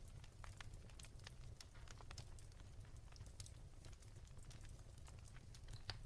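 Wood fire crackling softly, with small irregular pops and snaps over a faint low hum.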